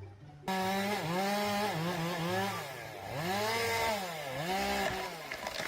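A small high-revving engine or motor, like a power tool, starts about half a second in and runs until near the end. Its pitch dips and climbs back up several times.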